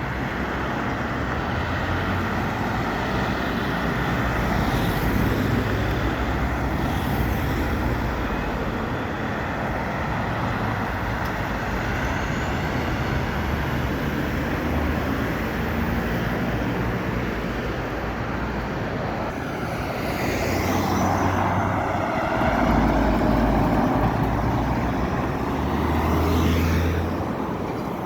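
City street traffic: trucks and cars driving past, with a steady low engine rumble and tyre noise. Louder passing vehicles build up about two-thirds of the way through and again near the end.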